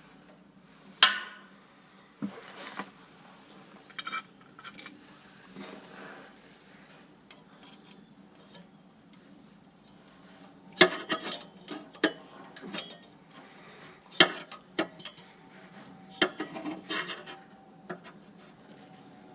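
Scattered metallic clinks and knocks as the boiler's casing and fan parts are handled, with one sharp knock about a second in and a busier run of knocks in the second half.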